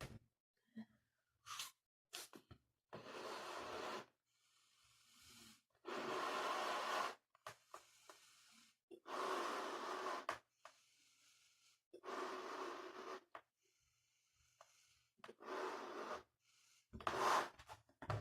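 A person blowing up a balloon by mouth: about six strong puffs of breath, each about a second long, roughly every three seconds, with short inhales between them.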